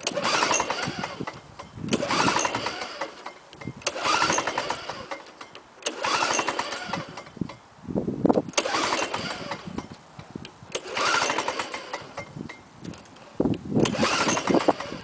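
Lawnboy 5127 mower's two-stroke F engine being pull-started on choke: seven recoil pulls about every two seconds, each a short burst of cranking, and the engine does not keep running.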